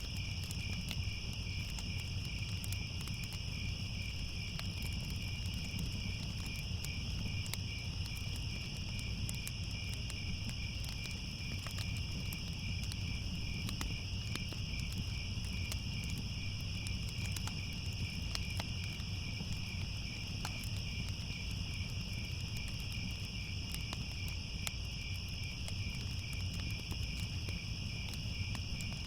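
Crickets chirping in a steady, unbroken chorus, over a low rumble and scattered faint crackles.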